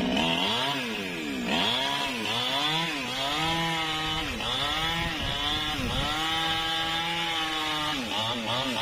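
Newwest 628 chainsaw running under load while cutting angsana wood. Its engine pitch repeatedly sags and climbs back, roughly once a second, as the chain bites into the cut and eases off.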